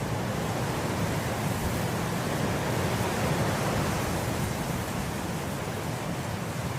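Wind blowing through swaying grass, a steady noise that swells a little in the middle and eases off near the end.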